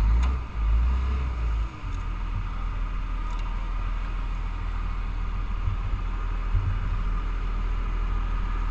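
Heavy truck engine running steadily with a low rumble, with a couple of deep, heavier surges of low rumbling in the first two seconds.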